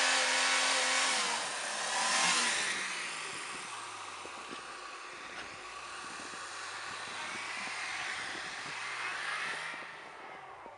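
Off-road 4x4 engine revving under load, its pitch falling and then rising again, growing fainter toward the end as the vehicle pulls away.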